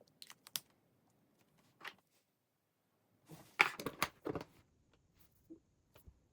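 Small objects being handled: a few light clicks and taps, then a short cluster of louder knocks and clatter about three and a half seconds in.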